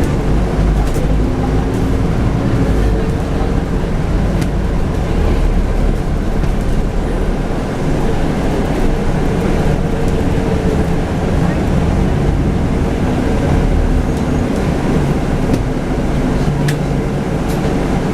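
Scania N250UD double-decker bus on the move, its 9.3-litre five-cylinder diesel and road noise making a steady low drone, with a few short rattles.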